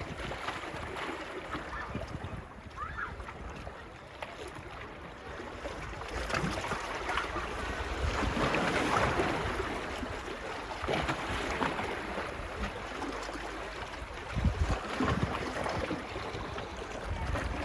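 Small waves washing onto a beach in slow swells, with gusts of wind buffeting the microphone in low thumps near the end.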